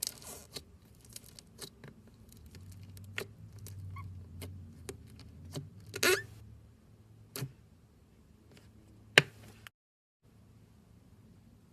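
Foam-bead slime being squeezed and pressed by hand, giving scattered small crackles and pops, with a longer crackle about six seconds in and a sharp, loud pop about nine seconds in.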